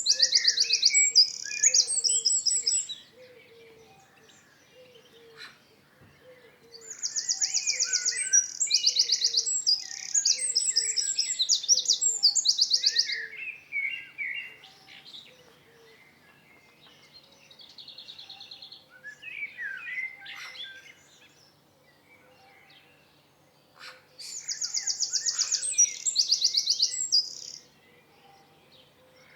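A songbird singing in bouts of rapid high trills and warbling phrases: three bursts of song with short quieter calls between them. A faint low note repeats about once a second underneath.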